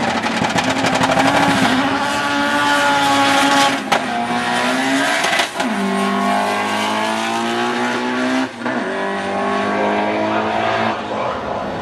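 A race car accelerating hard down a drag strip, its engine rising in pitch through the gears. It upshifts three times, about four, five and a half and eight and a half seconds in, each with a brief break in the sound.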